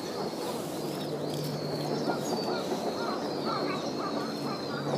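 Birds chirping and calling: thin high chirps throughout, and from about two seconds in a lower call repeated about twice a second, over a steady background hum.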